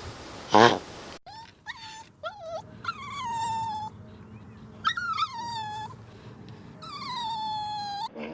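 A dog whining: high, drawn-out whimpers, three of them about a second long and falling in pitch, with shorter whimpers between. Just before them, about half a second in, comes one short, loud animal call.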